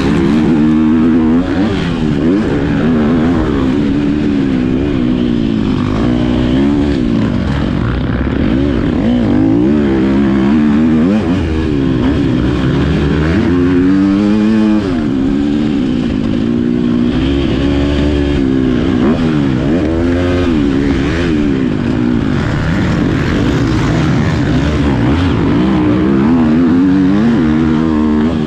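Motocross bike engine revving, its pitch climbing and dropping again and again as the throttle is opened and closed.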